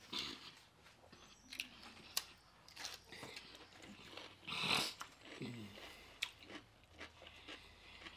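Close-miked chewing and wet mouth sounds of someone eating a seafood boil, with scattered small clicks and smacks and one louder, breathier burst about halfway through.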